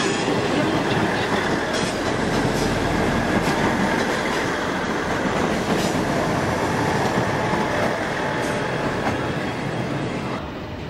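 South West Trains electric multiple unit running away along the platform, a steady rumble of wheels on rail with scattered sharp clicks. The noise steps down near the end as the train clears the station.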